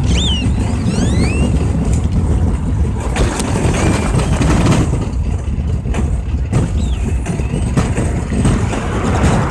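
Steady low rumble of road traffic, with birds calling over it in short whistled glides, several near the start and another near the end.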